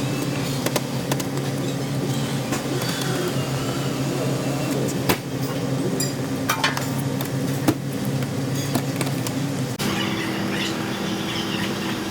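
A motor running with a steady hum that shifts to a different pitch about ten seconds in, with scattered clicks and knocks over it.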